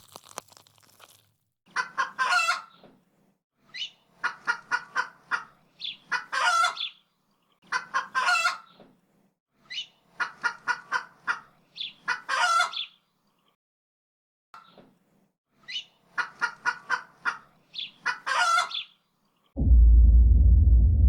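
A chicken clucking and cackling: repeated bouts of quick clucks, each ending in a longer squawk, about every two seconds. A much louder low rumble starts abruptly near the end.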